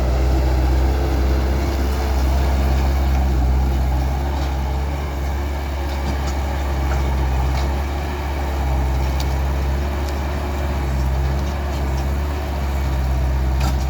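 Skid steer engine running steadily, with a wavering whine above the low engine hum and a few light clicks.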